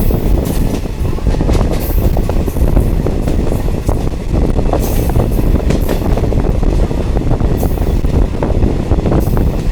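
Diesel multiple unit train running along the track: a loud, steady low rumble with many irregular rattles and clatters, and a few brief hisses.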